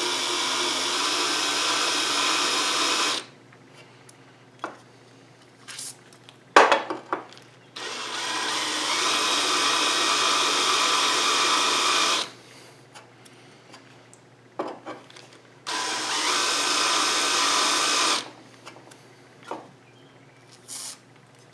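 Cordless drill running a bit into the threaded hole of a square metal bar to taper the hole's mouth. It runs in three separate spells of a few seconds each, the middle one longest, with a few short clicks and knocks in between.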